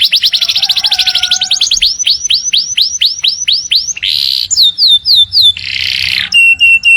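Domestic canary singing a long, varied song. A very fast trill gives way about a second and a half in to slower swooping notes. Two harsh buzzy phrases follow, and it ends on a steady held whistle.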